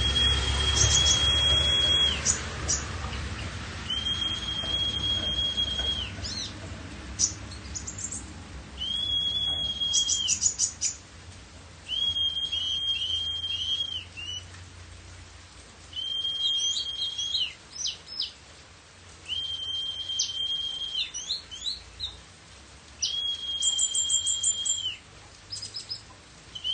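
A kolibri ninja sunbird singing in repeated phrases. Each phrase is a held high note of about two seconds with quick sharp chirps above it, and a short pause follows each one.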